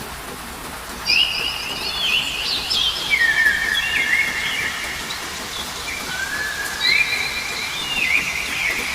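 Steady rain with a songbird singing clear whistled notes over it, starting about a second in: short held high notes that step down in pitch with quick slides between them, in two phrases.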